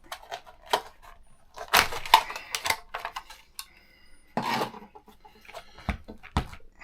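Small hard parts and plastic packaging being handled on a workbench: irregular clicks and light clinks with a few short rustles, loudest about two seconds in and again past the middle.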